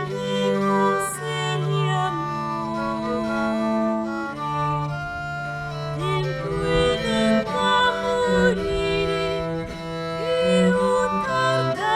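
A slow early Italian Renaissance song played live on bowed strings, with long held notes, some with vibrato, over a sustained bass line.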